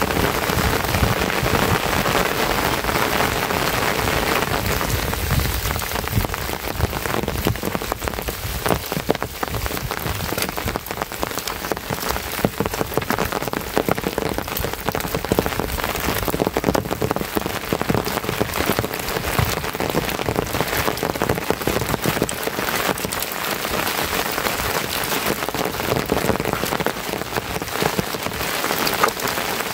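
Steady rain falling, with many separate drops striking.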